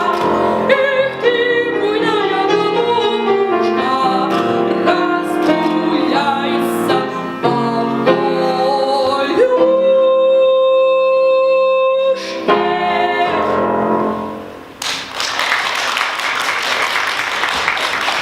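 A voice singing a Russian folk song over piano accompaniment, ending on one long held high note before the piano closes the song. An even, unpitched noise follows for the last few seconds.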